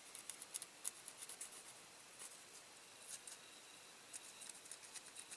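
Faint, irregular small clicks and light taps of small diecast toy-car parts being handled and set down on a workbench.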